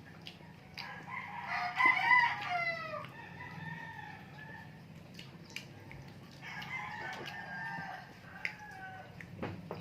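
A rooster crowing: one loud crow about a second in that falls away at its end, and a fainter crow in the second half, with a few small clicks between.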